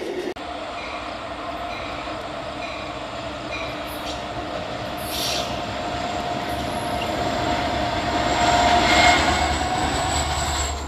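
A train rolling past on the rails, its wheels squealing in thin, sustained tones. The sound grows louder toward a peak about nine seconds in.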